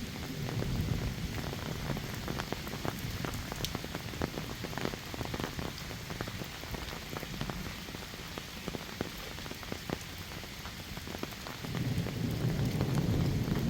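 Heavy rain falling steadily, with many close raindrops striking hard. A low rumble swells near the end.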